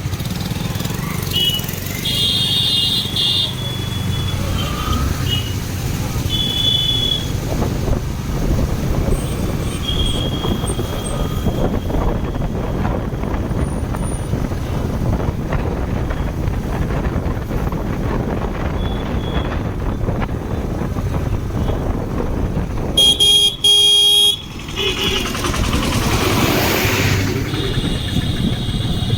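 Motorcycle riding through traffic, its engine and road noise steady throughout. Vehicle horns toot several times, and a loud, blaring horn sounds about 23 seconds in for a second or so.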